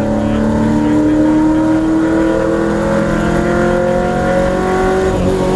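V8 Supercar's V8 engine running hard at high revs, its pitch climbing slowly as the car accelerates in a high gear and then holding steady near the end.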